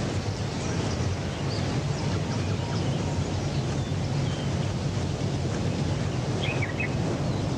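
Steady outdoor ambience: a constant low rumble under a wind-like hiss, with faint bird chirps scattered through and a short run of chirps about six and a half seconds in.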